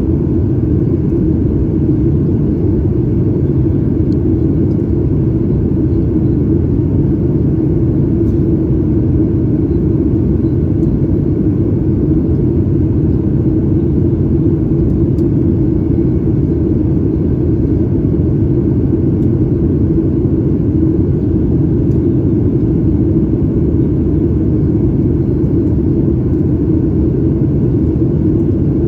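Steady, loud low rumble of a Boeing 737 MAX 8's CFM LEAP-1B engines and airflow heard inside the cabin, unchanging throughout.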